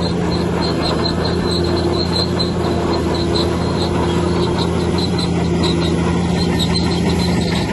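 Heavy earthmoving machine running steadily under load, a deep engine hum with a run of short, high squeaks repeating a few times a second.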